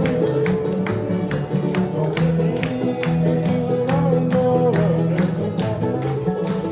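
Live bluegrass band playing an instrumental passage: a quick, even run of picked string notes over held melody lines.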